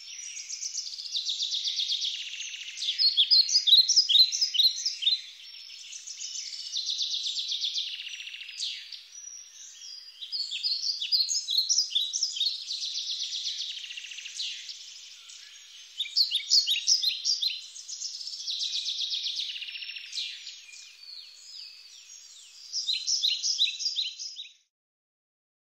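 Songbirds singing: bursts of quick, high chirping and trilled notes in phrases of two to four seconds with short pauses between them, stopping abruptly near the end.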